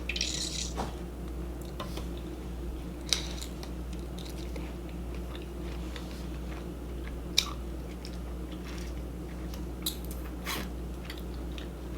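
Close-miked chewing of shrimp and ramen noodles, with a few short sharp mouth clicks or smacks scattered through, the loudest about three and seven seconds in, over a steady low hum.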